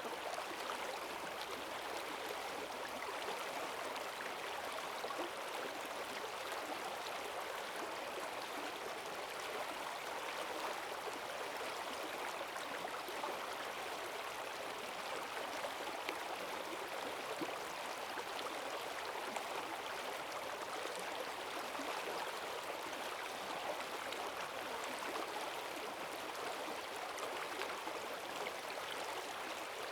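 Forest stream running high and fast after heavy rain: a steady rushing of water over stones, with bubbling in the current.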